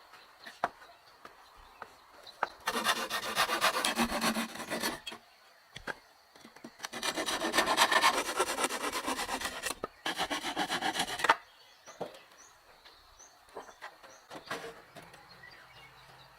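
A hand tool rasping across wood in quick, rapid strokes, in three bouts a few seconds each, with light knocks in the pauses between.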